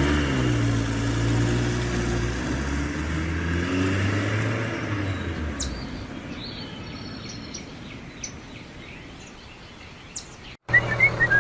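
A tractor engine running with a wavering pitch, fading away about halfway through. Short high bird chirps follow over quiet outdoor background.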